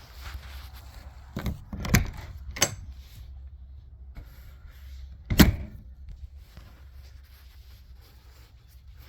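Door or hatch on a travel trailer being handled: three quick clunks, then one louder bang about five seconds in.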